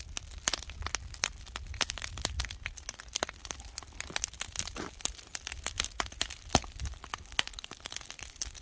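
Wood fire crackling and popping, with many irregular sharp snaps from the burning firewood, over a low rumble of wind on the microphone.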